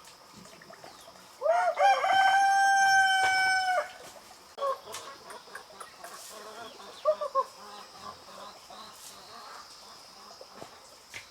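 A rooster crows once, a long call of about two and a half seconds that rises at the start and then holds a steady note, followed by a few short clucks.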